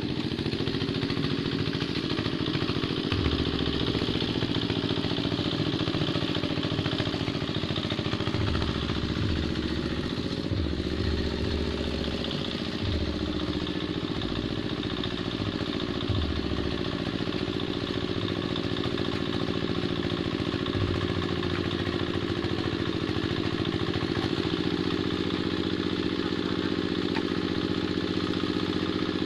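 Two-wheel hand tractor's engine running steadily under load while plowing a muddy paddy field, with some low knocks and a slight dip in pitch now and then.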